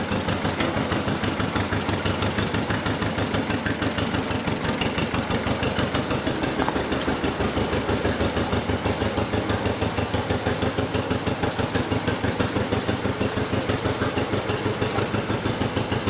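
1955 John Deere 40S two-cylinder tractor engine running steadily with an even putt-putt of about five beats a second.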